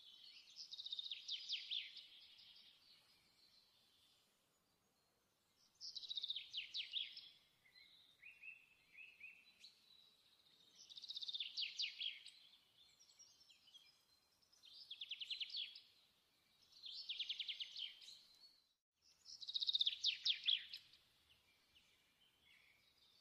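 A songbird singing: short, fast trilled phrases, high-pitched, repeated every few seconds.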